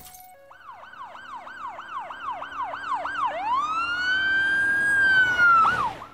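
Emergency vehicle siren in a fast yelp, about three up-and-down sweeps a second, then switching to a slow wail that rises and holds. It grows louder throughout and cuts off suddenly at the end.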